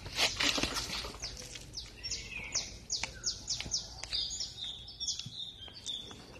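Birds singing, with a run of quick descending chirps, several a second, in the middle. A few short sharp noises sound in the first second, over a faint steady low hum.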